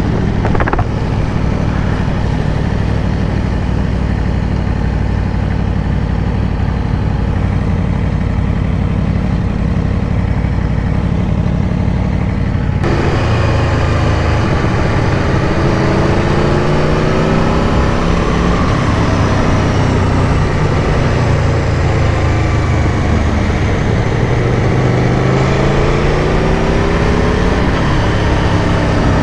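Aprilia Tuono V4 Factory's V4 engine running under way, heard from on board. For about the first half the engine holds a steady speed. After an abrupt change in the sound about thirteen seconds in, the revs rise and fall several times with the throttle and gear changes.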